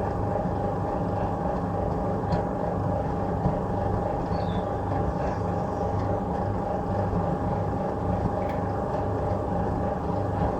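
1966 Bendix LA automatic washing machine in its wash cycle, its motor and stainless steel drum running steadily with a constant whine and a low, evenly pulsing rumble.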